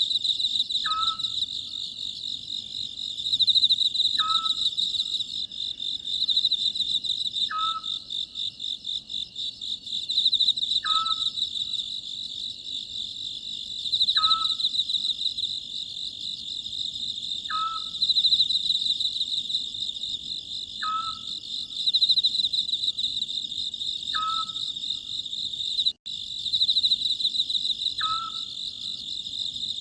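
Oriental scops owl giving its short call over and over, about every three seconds, over a steady pulsing chorus of crickets.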